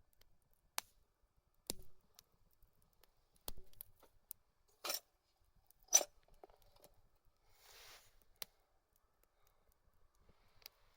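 Scattered sharp clicks and snaps, about ten at irregular intervals with the loudest around the middle, and a short hiss a little before eight seconds in.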